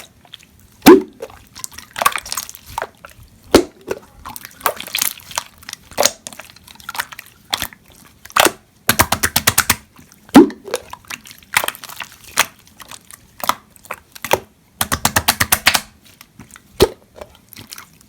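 Slime being pressed and poked by hand, giving sharp, wet pops and clicks as trapped air bursts. Twice, about halfway and near the end, there is a quick run of rapid clicking lasting about a second.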